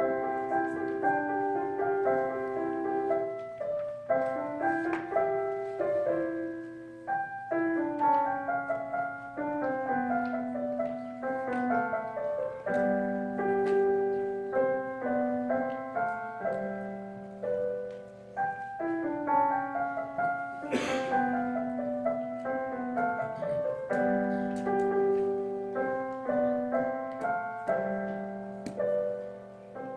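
Piano playing a simple piece, a melody of short notes over lower accompanying notes. About two-thirds of the way through there is one brief sharp noise.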